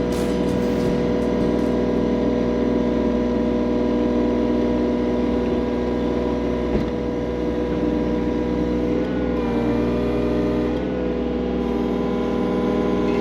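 Skid loader engine running steadily at working speed, its pitch dipping briefly twice, about nine and eleven seconds in, as it takes load.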